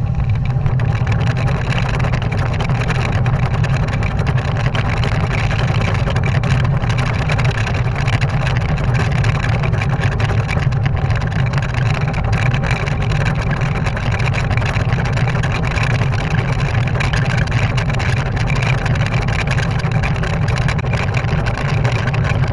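Valtra T174 tractor engine running steadily under load while baling hay.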